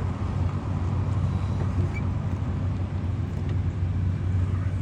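Car engine running steadily, a low hum with a faint haze of noise over it.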